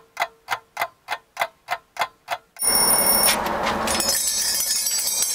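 Even clock-like ticking, about three ticks a second. About two and a half seconds in, a loud ringing of bells cuts in suddenly and goes on jangling.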